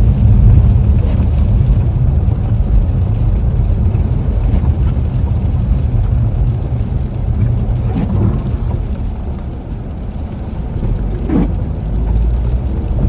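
Car driving on a sleet-covered road, heard from inside the cabin: a steady low rumble of engine and tyres.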